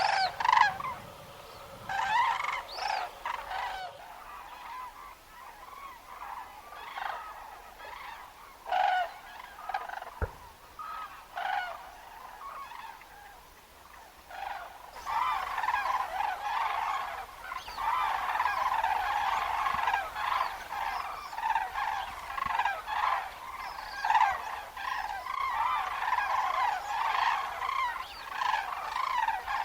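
A flock of cranes calling, many trumpeting calls overlapping. The calls are scattered at first and become a dense, continuous chorus about halfway through.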